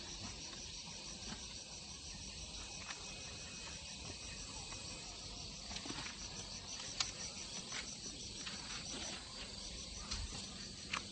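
Steady high-pitched insect chirping in a fast, even pulse, with a few faint clicks, the sharpest about seven seconds in and another near the end.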